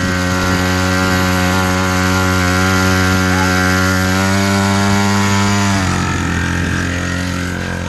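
Motorcycle engine running at steady revs, sinking slightly in pitch and then dropping off to a lower, rougher note about six seconds in.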